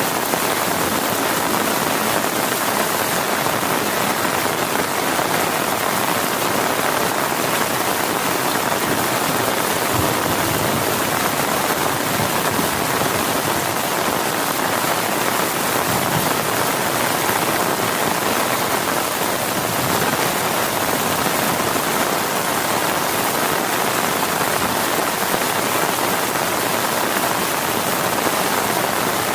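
Heavy rain falling steadily: an even, unbroken hiss with no letup.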